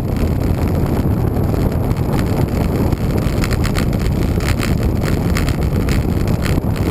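Wind buffeting the microphone of a camera riding along on a moving bicycle, a steady low rumble. A run of light ticks comes through it from about two to five seconds in.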